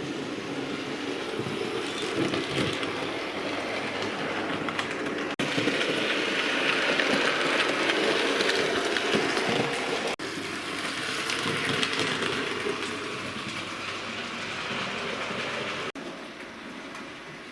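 Bachmann A1 Pacific model locomotive running on model railway track: a steady motor whirr with wheels clicking over the rails. It grows louder in the middle as it passes close, then fades.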